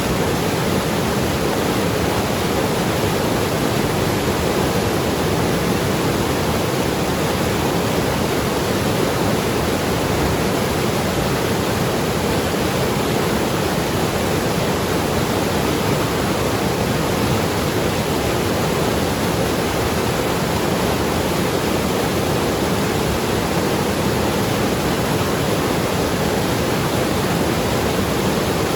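Mountain river rushing and gurgling over rocks: a steady, loud, unbroken water noise.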